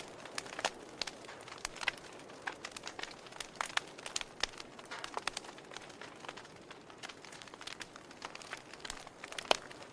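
Wood fire crackling: a steady faint hiss with irregular sharp pops and snaps, the loudest pop near the end.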